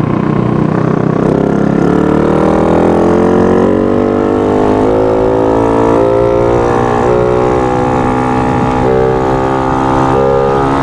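Yamaha Sirius underbone motorcycle's single-cylinder four-stroke engine under way, heard from the rider's seat. It revs up, rising in pitch over the first few seconds, then holds steady at speed with a couple of brief dips.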